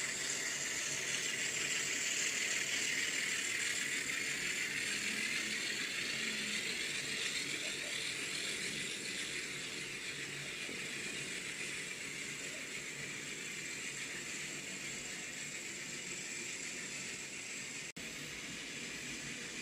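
N scale Atlas Alco FA-1 model diesel locomotives running on the track, with the ESU LokSound decoder playing diesel engine sound over a steady hiss of wheels on rail. The sound slowly fades as the train moves away, with a brief dropout near the end.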